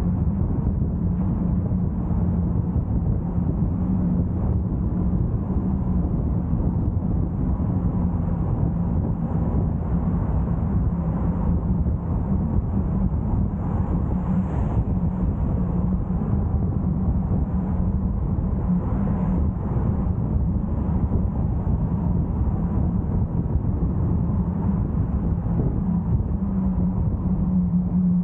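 Car driving along a road: steady tyre, wind and engine noise with a constant low hum.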